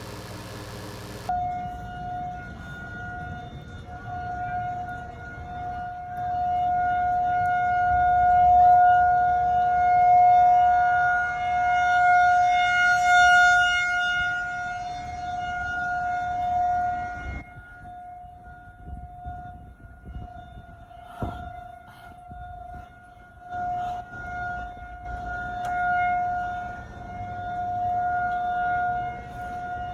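Outdoor tornado warning siren sounding a steady wail, its loudness swelling and fading, with a low rumble of wind on the microphone underneath.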